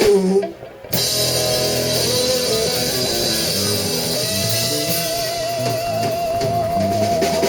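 Live rock band playing an instrumental passage: electric guitar over drums and cymbals. About four seconds in, a long held note with vibrato comes in over the band.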